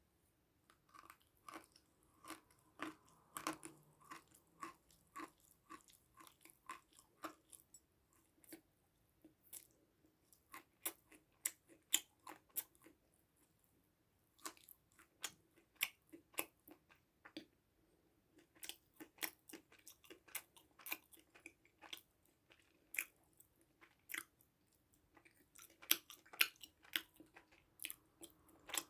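A person chewing and crunching food close to the microphone, about two crisp crunches a second in runs with short pauses between.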